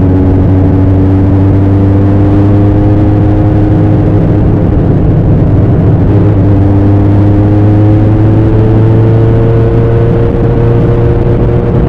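Bimota SB3's Suzuki GS1000 air-cooled inline-four engine and exhaust running under way. Its note rises slowly, breaks off about halfway through and then climbs again.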